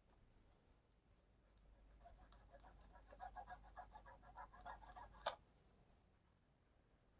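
Faint, rapid scratchy scrubbing strokes on an LED TV panel's COF bonding contacts as they are cleaned, from about two seconds in until a sharp click about five seconds in.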